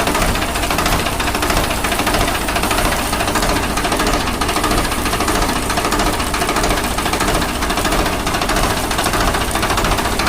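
A machine running steadily with a rapid, even knocking pulse.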